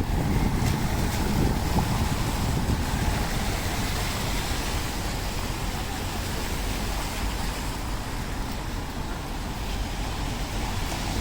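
Steady rainy city-street ambience: a continuous hiss of rain and tyres on wet road over a low traffic rumble.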